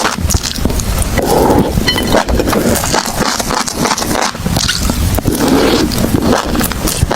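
Close-miked chewing of crunchy food: a dense, irregular run of crisp crunches and crackles.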